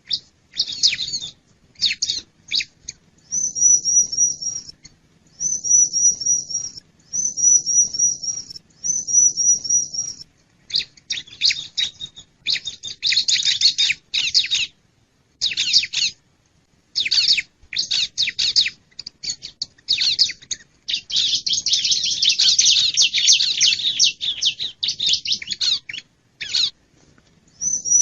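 Bar-winged prinia (ciblek) calling: bursts of sharp high chirps and short trills of rapidly repeated notes, broken by brief gaps. About three quarters of the way through comes a longer run of dense chattering.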